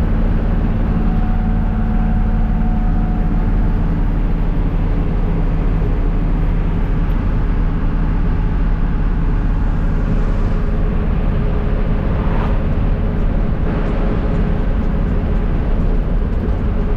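Naturally aspirated 6.2L diesel V8 of a 1982 Chevrolet C30 truck running steadily under load while driving, pulling up a long hill.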